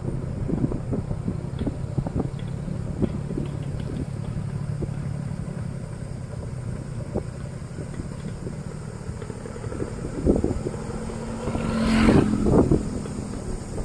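Motorcycle engine running at low revs, with frequent short knocks and rattles. Near the end the engine note climbs higher and there is a louder rush.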